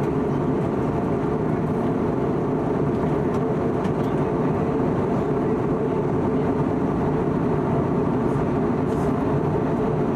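Steady in-flight cabin noise of an Airbus A320neo: an even rumble of airflow and engines, heaviest in the low end.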